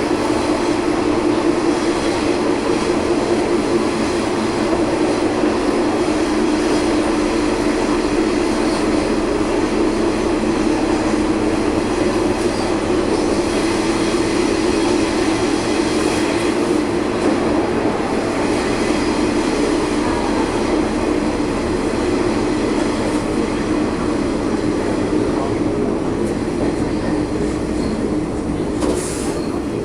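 Diesel local train running along the line, heard from the driver's cab: a steady drone of engine and wheel-on-rail noise.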